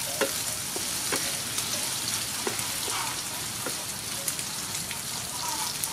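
Sliced sea snail frying in hot soybean oil with chopped garlic, a steady sizzle with scattered crackles and pops, while a wooden spatula stirs it in the pan.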